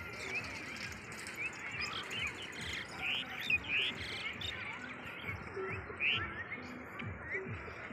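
Many small birds chirping in a busy chorus of short, quick calls, with soft low thumps underneath.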